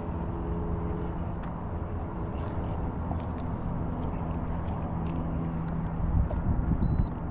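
Boat motor running steadily with a low, even hum, over wind and water noise; the sound gets rougher and more uneven in the last second or so.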